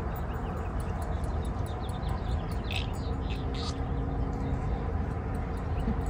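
Small birds chirping a few times about halfway through, over steady low outdoor background noise.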